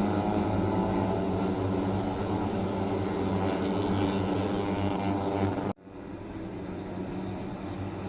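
Steady engine drone holding an even pitch; it breaks off abruptly about six seconds in and comes back quieter.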